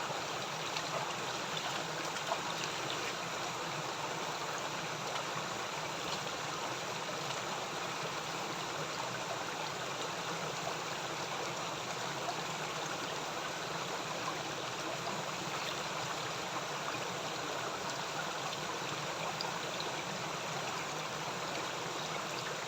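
Water of a small river and its little cascade running, a steady, even rushing and trickling.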